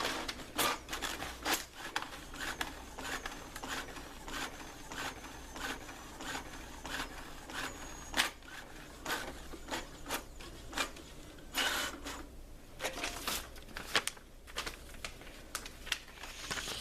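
Brother inkjet printer printing a test page after a head cleaning: its print-head carriage and paper feed run with a string of irregular clicks and faint whirring, with a brief louder rush about twelve seconds in.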